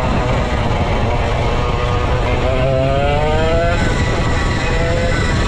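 Vintage go-kart's 135cc Sudam engine running at racing speed under a dense rush of noise. Its pitch rises as it accelerates about halfway through, and again near the end.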